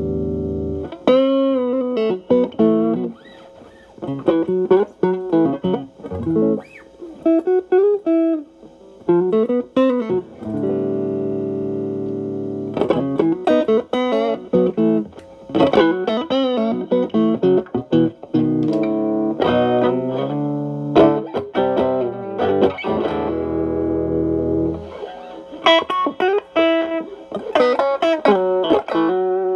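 Fender Stratocaster overdriven by a Xotic AC Plus pedal with both channels stacked (Ch.B as the main drive, Ch.A boosting it with its volume at maximum), played into a Marshall Valvestate amp. Distorted lead licks with string bends and vibrato, broken by held, ringing chords.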